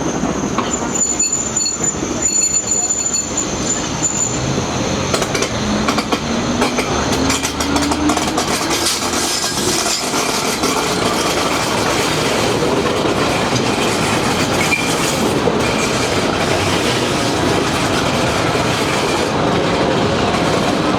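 Train running on rails, with wheel and track noise throughout and a rising whine about five to eight seconds in.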